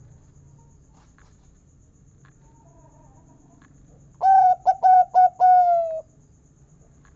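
Zebra dove (perkutut) singing one cooing phrase about four seconds in: about four quick, clipped notes followed by a long final 'kung' note that falls slightly in pitch.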